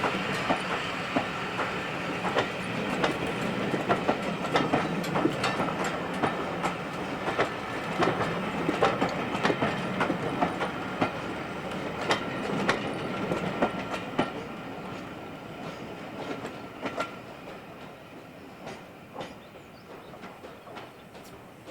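Train wheels clattering over rail joints as a train passes, in a quick, uneven run of clicks over a rolling rumble. The sound fades away over the last third as the train moves off.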